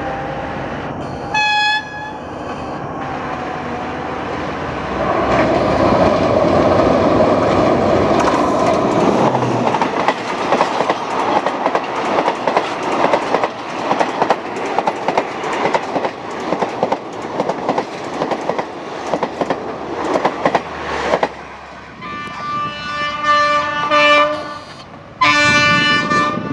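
Diesel locomotive horn sounding a short blast, then passenger coaches rolling past close by, their wheels clicking rhythmically over the rail joints. Near the end a locomotive horn sounds twice more.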